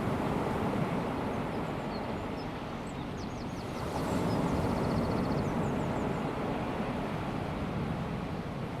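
Small waves of a calm sea washing onto a sandy beach, steady, with one swell of surf about four seconds in. Faint high bird chirps and a short quick trill are heard in the middle.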